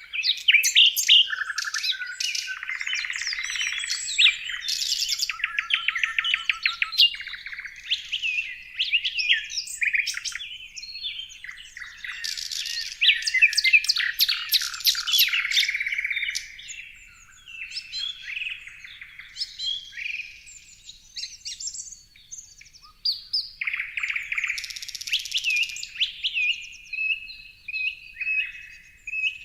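Several songbirds chirping and singing at once, overlapping whistles, chirps and fast rattling trills. The chorus thins out for a few seconds past the middle, then picks up again.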